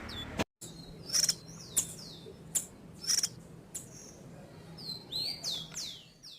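A small songbird singing a string of short, high chirps and downward-sweeping whistles, with a brief break about half a second in.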